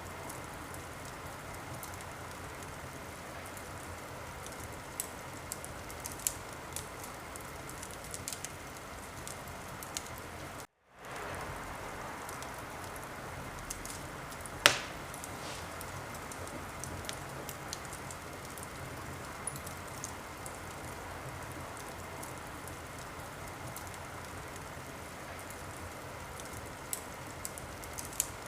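Wood fire burning in a fireplace: a steady soft hiss with scattered small crackles and one loud pop about halfway through. The sound cuts out for a split second a little before the pop.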